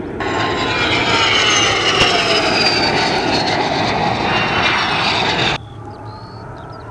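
Fixed-wing airplane engine noise as an aircraft passes, its pitch sliding downward as it goes by. It cuts off abruptly about five and a half seconds in.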